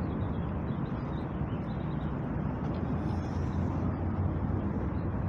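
Steady low rumble of city traffic, a constant hum with no single event standing out.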